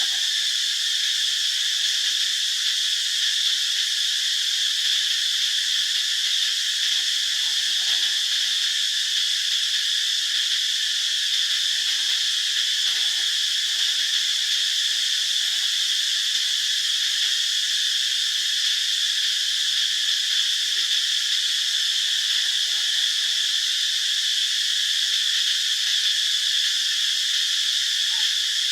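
Steady, high-pitched drone of an insect chorus, even and unbroken, with no changes in level.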